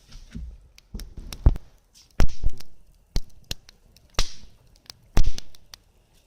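Close handling noise: a string of sharp knocks and dull thumps, about a dozen in six seconds, the loudest a couple of seconds in and again near the end.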